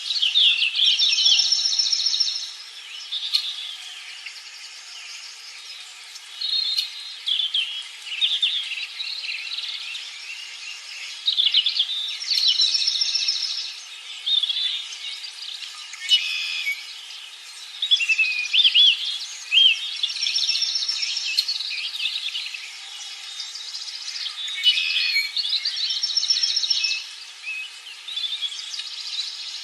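Songbirds singing: a run of varied chirps and warbled phrases, with a buzzy trilled phrase repeated every several seconds.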